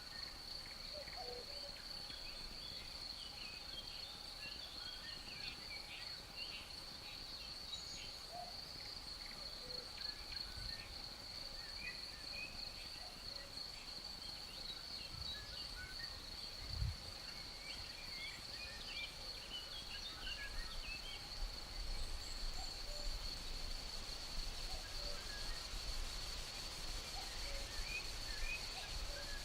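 Outdoor nature ambience: a steady high-pitched insect drone throughout, with many short bird chirps scattered over it. A brief low thump comes about halfway through, and a faint low rumble builds near the end.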